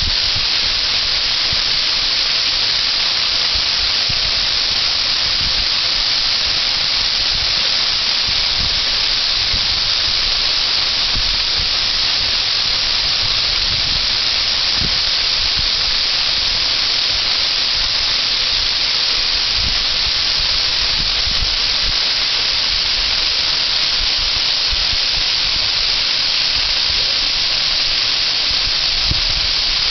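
Waterfall: water pouring down in a loud, steady, hiss-like rush that never lets up.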